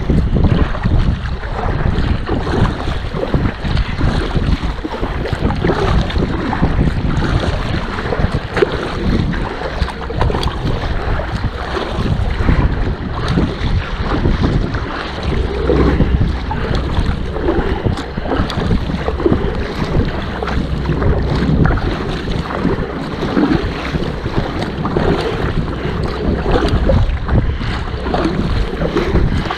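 Strong wind buffeting the microphone in irregular gusts, with water splashing and lapping around a kayak paddled on a choppy lake.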